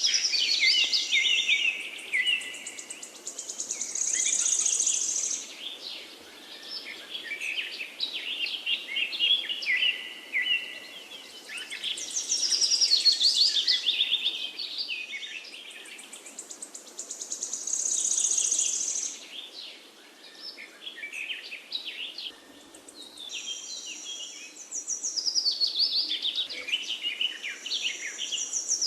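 Several forest songbirds singing in overlapping phrases. A high, rapid trill comes back every six or seven seconds among shorter chirping notes.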